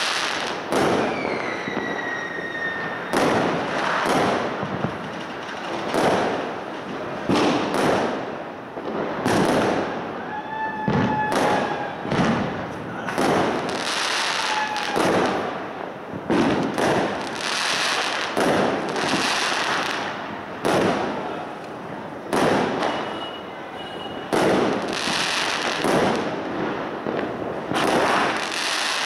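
Aerial fireworks bursting in quick succession, a bang about every second. A few whistles slide down in pitch among them.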